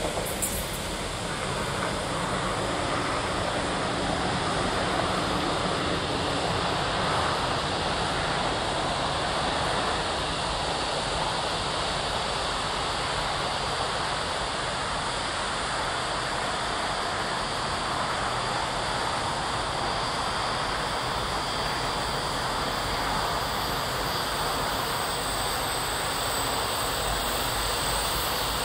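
A train running past: a steady, even noise of wheels on rails.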